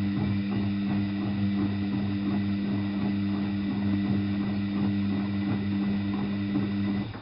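Washing machine drain pump running with a loud steady mains hum and a rapid pulsing churn of water, cutting off abruptly near the end.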